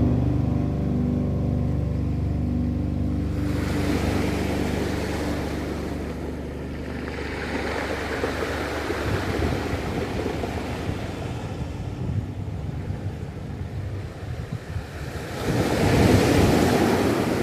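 Ocean waves washing onto the shore in slow swells that rise and fall, with a bigger wave breaking near the end. Held notes of music fade out in the first few seconds.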